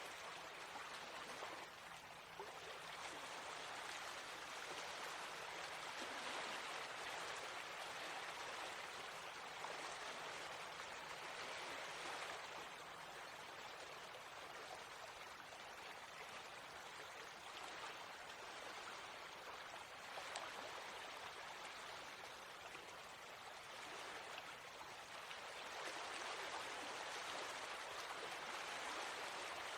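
Small stream of water flowing and babbling over stones, a steady rushing that swells and eases slightly.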